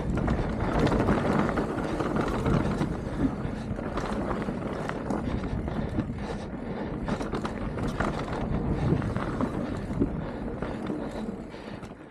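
Mountain bike riding along a dirt trail: tyres rolling and crunching over the ground with frequent knocks and rattles, and wind on the microphone. It quietens near the end.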